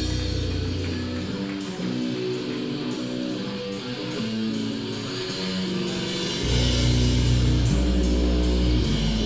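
Live heavy rock band playing an instrumental passage: electric guitars with drums and steady cymbal strikes. The low bass drops out about a second in and comes back in hard about six and a half seconds in.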